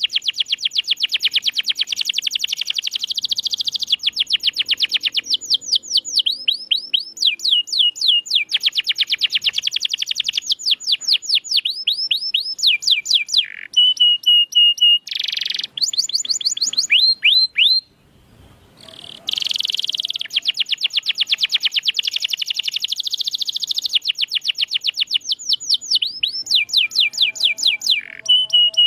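Domestic canary singing long, fast trills (rolls) of rapidly repeated notes, with runs of sweeping notes and a few held whistled notes. It pauses briefly about two-thirds of the way through, then resumes.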